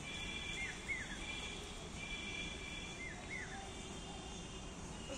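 A bird repeating a short two-note call about every two seconds, over a thin high steady tone and general outdoor background noise.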